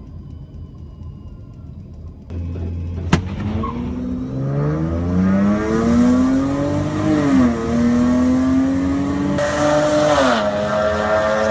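Car engine accelerating hard through the gears: its pitch climbs steadily, drops sharply at a gear shift about seven seconds in, climbs again and drops at another shift near the end. A sharp click comes about three seconds in, before the acceleration builds.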